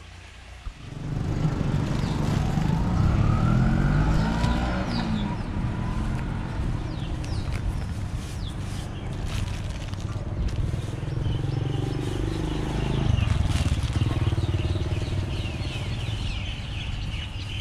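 Motor vehicle engine running close by, revving up and down over the first few seconds and then running steadier, with birds chirping.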